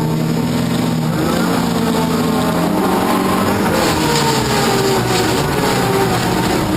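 Off-road race car engine running hard and loud, its pitch holding fairly steady with small rises and falls.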